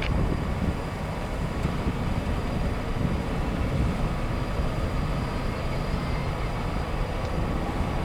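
Boeing 737-800's CFM56 jet engines at takeoff power: a steady, loud rumble on the departure.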